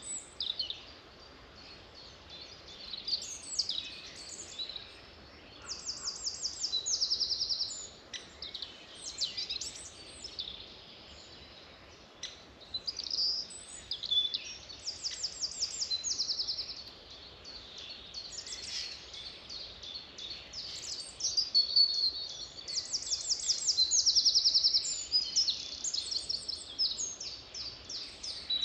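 Songbirds singing: a busy mix of high chirps and short phrases, with a loud rapid trill three times, about every eight or nine seconds, over faint steady background noise.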